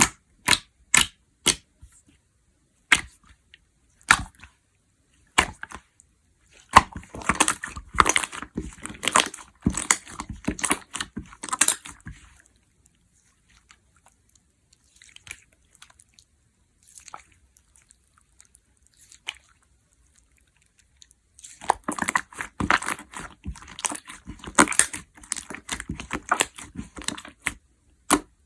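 Jiggly slime being pressed and stretched by hand, making sharp popping and crackling clicks: a few spaced single pops at first, then dense runs of crackles, a quieter stretch in the middle with only scattered pops, and another dense run near the end.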